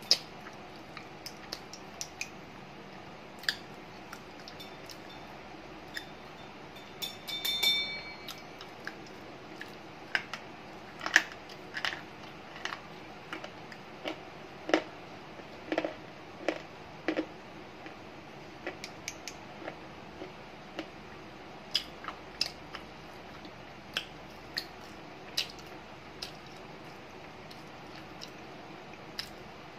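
Slate pencils being bitten and chewed: sharp, irregular crunches and snaps every second or so, with a brief squeaky scrape about seven seconds in, over a steady background hiss.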